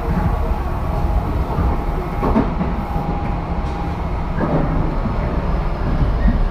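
Tobu 10080-series electric commuter train heard from inside the motor car while running at speed: a steady rumble of wheels on rail with a steady hum in it. There are a couple of rail-joint clacks, about two and four and a half seconds in.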